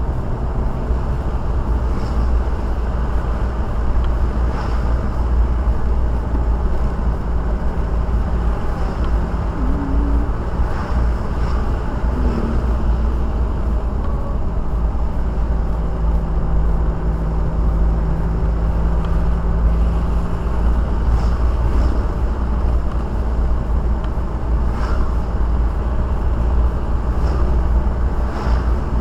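Steady low road and engine rumble inside a moving car's cabin, with faint light ticks every few seconds.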